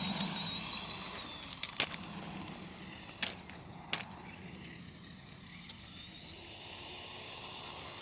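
Electric motor and gears of an Axial SCX10 II RC rock crawler whining at a steady high pitch as it drives. The whine fades about a second in and comes back in the last second and a half, with a few sharp clicks in between.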